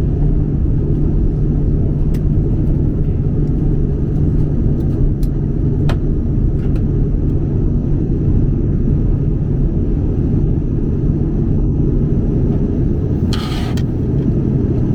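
Steady low rumble of an Airbus A330-200 airliner cabin, with a few faint ticks and a brief hiss near the end.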